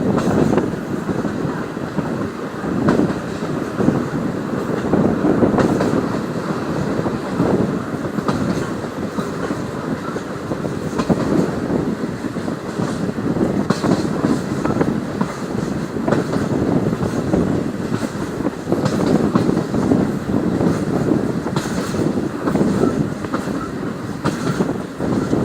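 Indian Railways passenger train running along the track: a steady rumble and rattle with scattered clicks of the wheels passing over rail joints.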